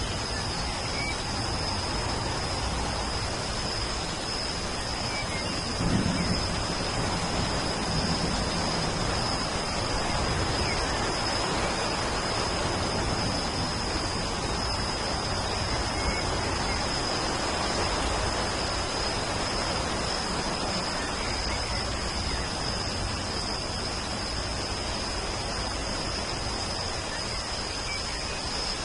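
Steady rainfall, with a short low rumble of thunder about six seconds in and a thin steady high tone behind it.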